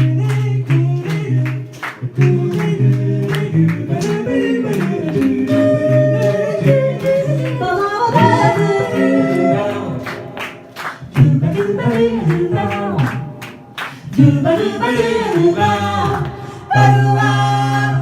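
A cappella vocal group singing a song without words in this stretch, in close harmony over a low sung bass line, with sharp percussive clicks keeping a steady beat. The voices swell into a held chord near the end.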